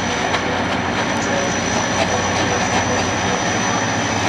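Pakistan Railways HGMU-class diesel locomotive No. 8217 hauling a passenger train past, its engine running with a steady low hum and the wheels clicking over the rail joints.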